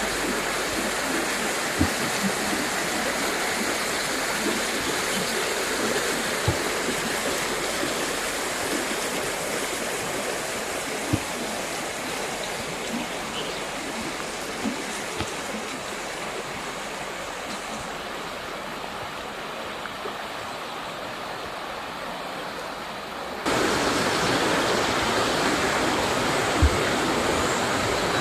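Steady rush of a mountain river running over rocks. It slowly grows quieter, then abruptly jumps louder about 23 seconds in. A few faint, short low knocks come through here and there.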